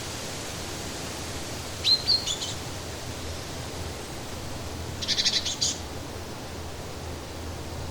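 Songbird calls over a steady hiss of outdoor background noise: a short call sweeping upward about two seconds in, then a quick run of chirps about five seconds in.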